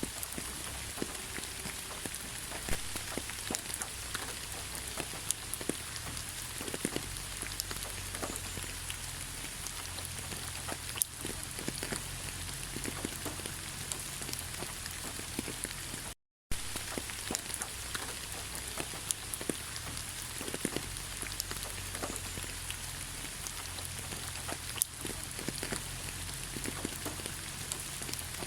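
Steady rain falling in a pine forest, a continuous hiss with many single drop hits standing out. The sound cuts out for a split second about halfway through.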